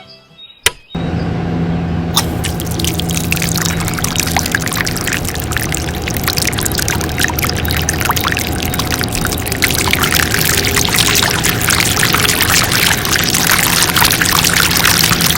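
Water gushing and splashing steadily from a mini water pump's outlet, with the steady hum of the Kubota RD 85 single-cylinder diesel engine driving it underneath. It starts suddenly about a second in, after a click, and grows louder about ten seconds in.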